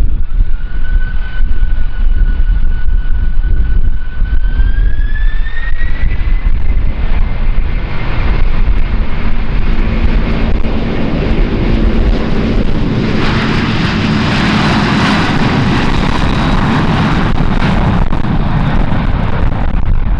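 Jet airliner's engines spooling up for takeoff: a high whine holds, rises in pitch about five seconds in, then gives way to a building roar of takeoff thrust that is loudest in the second half. Heavy wind buffets the microphone throughout.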